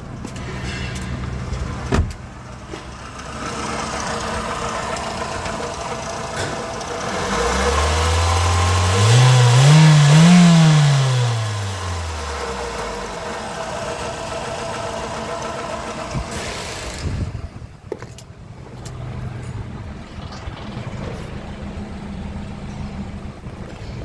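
Toyota bB's 1NZ-FE 1.5-litre inline-four engine running at idle, then revved once to mid rpm: the pitch rises from about seven seconds in, peaks near ten seconds and falls back to idle by about thirteen seconds. The engine is being test-run before the car is dismantled.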